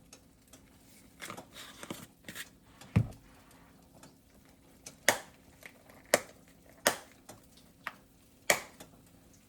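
A seasoning shaker being handled while garlic powder is shaken onto chicken: soft rattling, then about five sharp clicks and taps a second or so apart.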